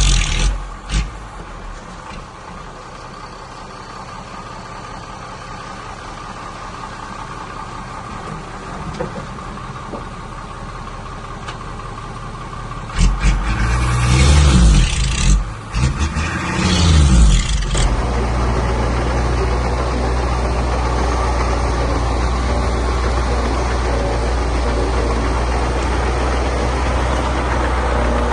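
Heavy earthmoving machine's diesel engine running: quieter at first, revving up and down several times around the middle, then settling into a steady, louder low drone.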